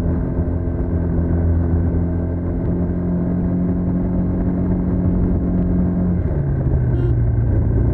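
TVS NTorq 125 scooter's single-cylinder engine running through its stock exhaust. Its pitch climbs slowly, then drops suddenly about six seconds in and holds steady at the lower note.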